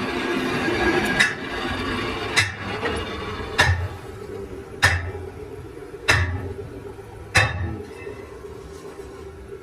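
Six hammer blows on a steel gear part, evenly paced about one every 1.2 seconds, each with a short metallic ring. A workshop machine hums underneath, louder in the first second.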